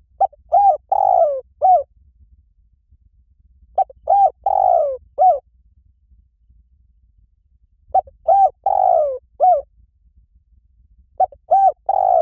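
Spotted dove cooing: a phrase of four low coos (two short, one longer drawn-out note, then a short one) repeated about every four seconds, three full times with a fourth beginning at the end.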